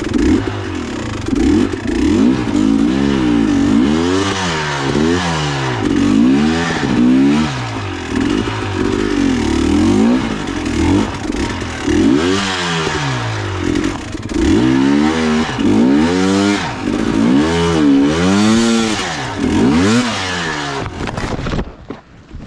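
Dirt bike engine revving up and down over and over, its pitch rising and falling about once a second under varying throttle. The engine sound cuts off abruptly near the end.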